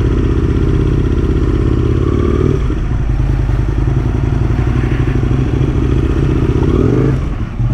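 Aprilia RSV1000's 998 cc V-twin engine running under way. Its note changes about two and a half seconds in, then drops as the throttle comes off near the end.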